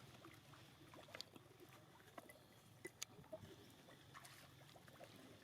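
Near silence: faint outdoor background with scattered soft clicks and rustles, the sharpest about a second in and again about three seconds in.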